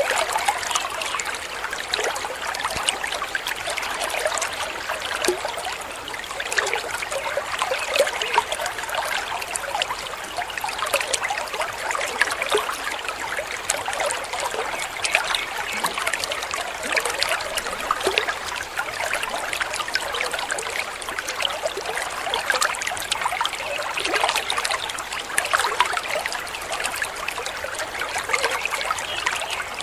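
Small waterfall: water splashing and trickling steadily, with fine spattering throughout.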